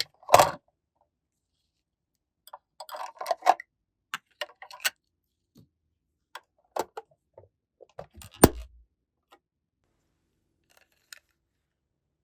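Small toy pieces clicking and tapping as they are handled: scattered light clicks, a cluster of them about three seconds in, and one sharp click about eight and a half seconds in.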